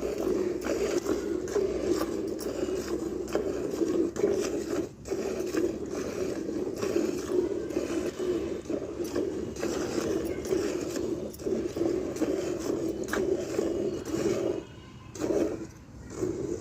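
A cow being milked: streams of milk squirting from the teats into a pail. The sound is steady, with short breaks about five seconds in and again near the end.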